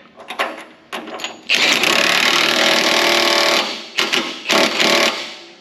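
Impact wrench hammering as it runs down bolts on a loader mounting bracket: one long run of about two seconds, then two short bursts.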